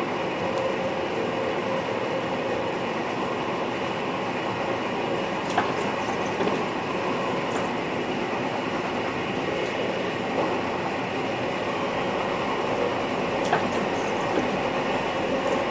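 Steady running noise inside the driver's cab of an NS VIRM double-deck electric train in motion, with a faint steady hum and a few short clicks.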